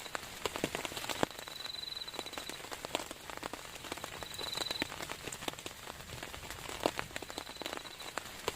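Heavy rain falling, with single drops tapping sharply on a surface. A high, rapidly pulsing trill from a small animal comes and goes a few times.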